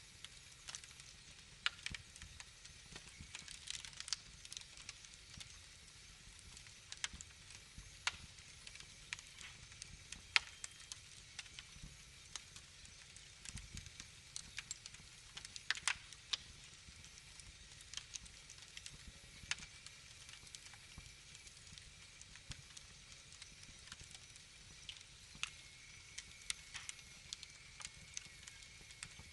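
Wood fire in a fireplace crackling: irregular sharp pops and snaps, a few louder than the rest, over a soft low rumble of flame.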